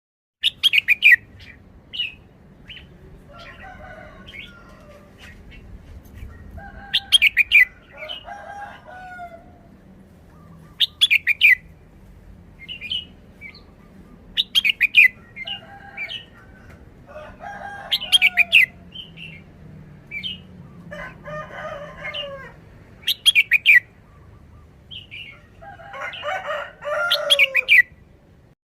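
Red-whiskered bulbul singing: short, loud, high song phrases repeated every few seconds, with softer, lower chirps and warbles between them.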